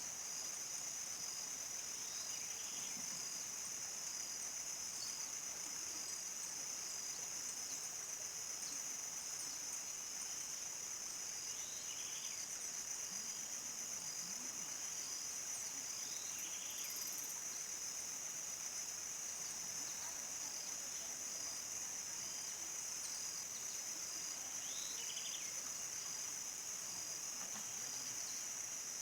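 Chorus of crickets trilling continuously in one steady high-pitched band. Short, scattered chirps, likely from birds, sound now and then beneath it.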